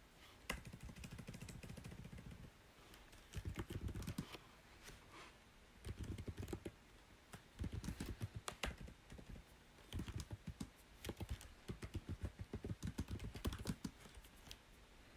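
Typing on a computer keyboard in quick bursts of keystrokes, with short pauses between the runs.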